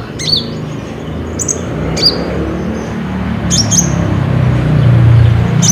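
Olive-backed sunbird giving sharp, high, downward-slurred chip calls, about one a second, over a low rumble that grows louder toward the end.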